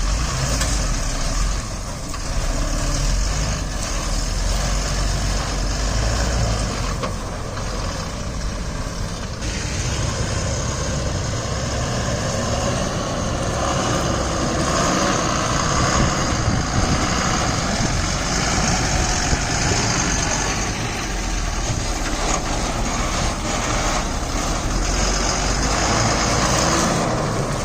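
Diesel engine of heavy earth-moving machinery running steadily with a deep rumble.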